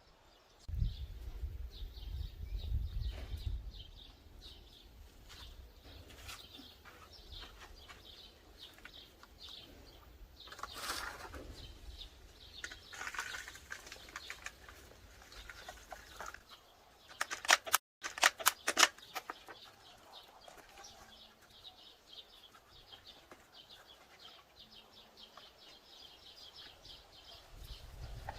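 Small birds chirping in the background, with a low rumble through the first half and a quick run of loud, sharp clicks just past the middle.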